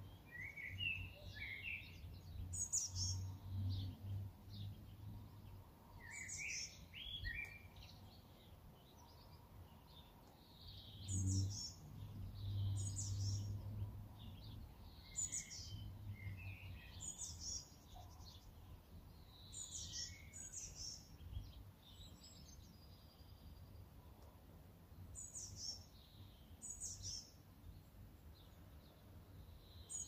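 Songbirds chirping and singing in short, high repeated phrases, one every second or two, over a faint low rumble that swells twice.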